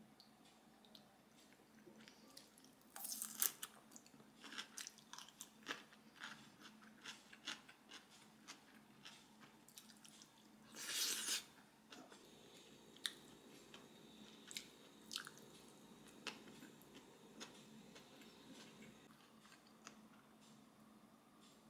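Close-up eating sounds: chewing and crunching of kimbap and noodles, with scattered light clicks and two louder crunchy bursts about three and eleven seconds in.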